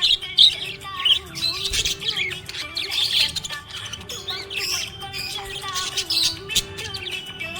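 Budgerigars chirping and squawking in quick, busy bursts, over background music with a steady melody.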